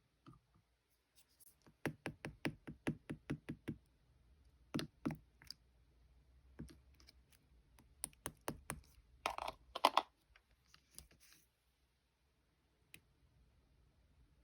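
Slime being pressed and worked by hand, making crisp clicking pops: a quick run of about five a second for two seconds, then scattered clicks and two longer, louder crackles near the ten-second mark.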